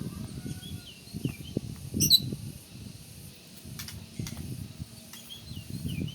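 Oriental magpie-robin (kacer) singing in short chirps and slurred whistles, with a loud sharp high call about two seconds in. A low crackling noise runs underneath.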